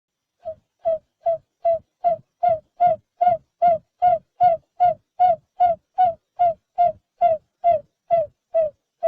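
Barred buttonquail giving its long series of short, low hoots, evenly repeated at about two and a half a second, growing louder over the first few seconds.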